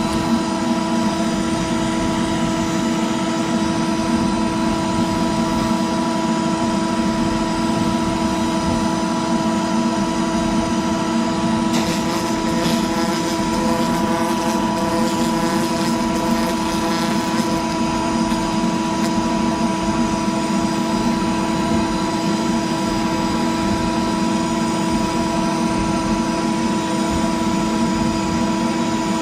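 CNC router spindle running steadily, with a 1/4-inch O-flute bit cutting a clearance pass in PVC: a steady whine with its overtones. The cut turns hissier for several seconds about twelve seconds in.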